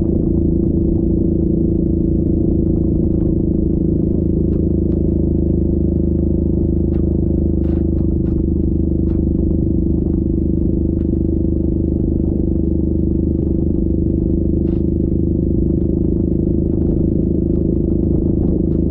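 Yamaha Grizzly 700 ATV's single-cylinder engine running at a steady throttle while riding, with a few faint clicks and rattles over it.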